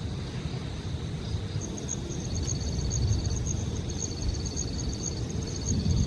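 Insects chirping: a high pulse about four times a second and a fast trill in runs of about a second, starting a little way in. Underneath is a steady low rumble of wind and rain.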